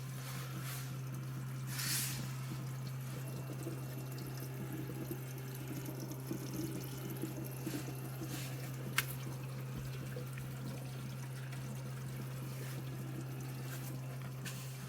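Gasoline being pumped out of a car's fuel tank, liquid trickling and dripping with scattered small ticks over a steady low hum.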